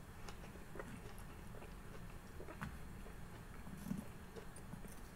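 Faint chewing of sushi, with scattered small clicks and taps from wooden chopsticks on the cutting board, over a low steady room hum.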